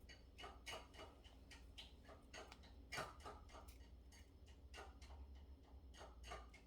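Faint, irregular clicks and taps of model airplane kit parts being handled and pushed together, with one sharper click about three seconds in.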